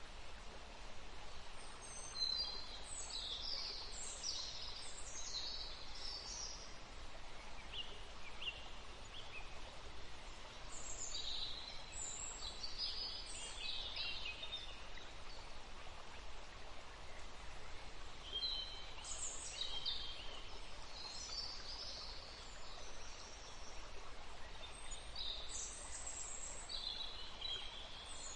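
Songbirds singing short, high chirping phrases in four bouts a few seconds apart, over the steady rush of a forest stream.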